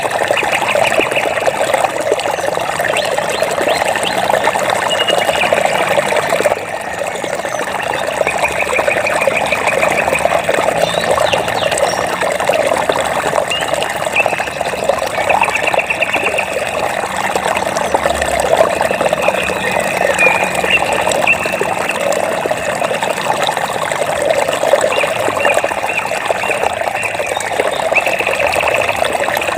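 Steady flowing, splashing water. Over it, short high-pitched trilling calls, each a quick run of pulses about a second long, repeat every few seconds.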